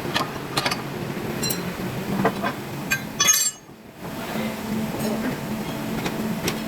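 Metal parts clinking several times over a steady machine hum, with one loud ringing metallic strike about three seconds in. Right after that strike the sound drops away suddenly for about half a second.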